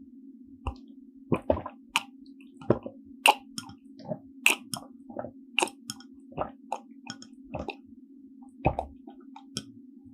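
Close-up mouth sounds of a person chewing soft steamed bun (hoppang): irregular wet squishes and smacking clicks, about two a second, over a steady low hum.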